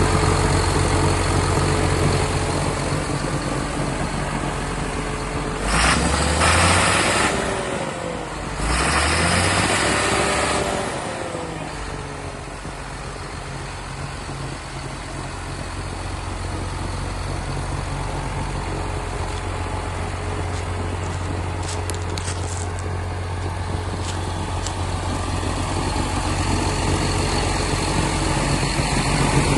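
John Deere 7930 tractor's six-cylinder diesel engine idling, revved up twice about six and nine seconds in, each rev rising and falling in pitch with a loud hiss, then settling back to a steady idle.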